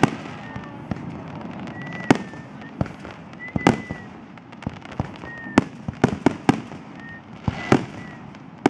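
Aerial firework shells bursting, a sharp bang every second or so over a continuous rumble, with a brief high whistle between some of the bangs.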